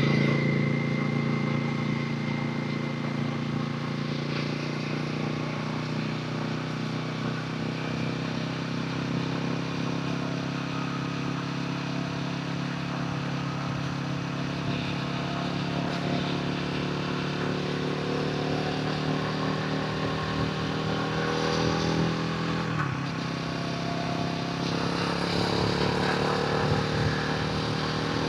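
Royal Enfield Himalayan 450's single-cylinder engine and exhaust on the move, holding steady revs for most of the stretch. Past two-thirds of the way the revs drop sharply, then climb again as the bike accelerates.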